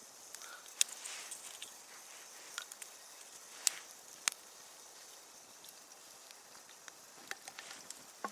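Campfire of damp wood burning with a steady faint hiss and scattered sharp pops and cracks, the loudest a little under a second in and two more around the middle.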